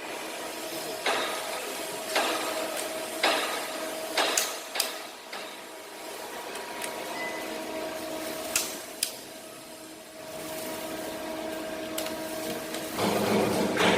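Scattered metallic clinks and knocks of tools and engine parts being handled during engine assembly, over a steady faint hum.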